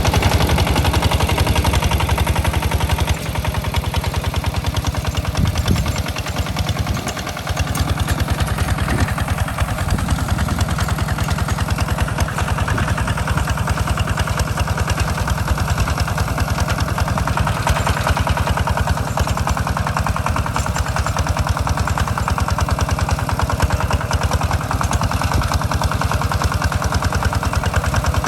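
Two-wheel walking tractor's single-cylinder diesel engine running steadily under plowing load, with a fast, even exhaust chug. The loudness dips a little about three seconds in and then holds.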